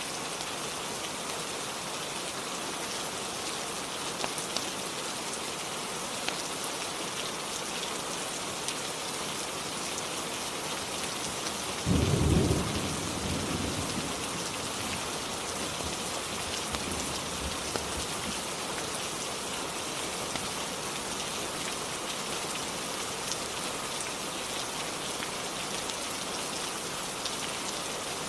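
Steady rain with a sudden clap of thunder about twelve seconds in that rumbles off over the next couple of seconds.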